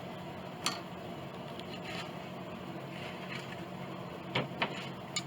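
Wooden parts being handled during soundboard work: a few sharp clicks and knocks and a short scrape over a steady shop hum.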